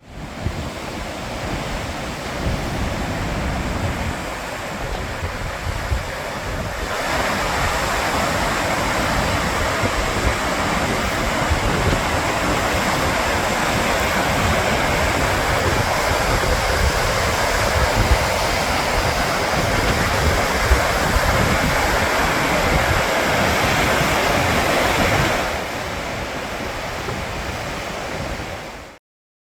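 Gullfoss waterfall's steady rushing roar, with wind buffeting the microphone. It steps up in loudness about seven seconds in, drops back near the end and cuts off suddenly.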